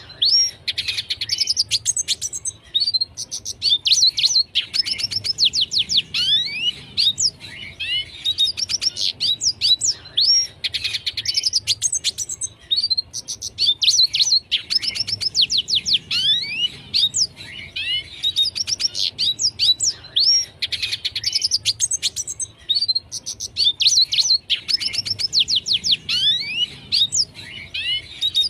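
Red siskin singing a continuous twittering song: phrases of rapid, high, downward-sweeping notes following one another with hardly a break.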